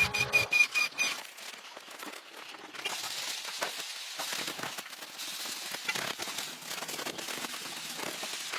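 Dense, irregular crackling made of many small rapid clicks over a hiss, holding at an even level; it takes over about a second in, when a musical passage with a beeping tone ends.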